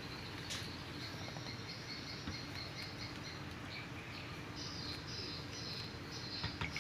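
High-pitched animal chirping in many short repeated notes, over a faint low steady hum.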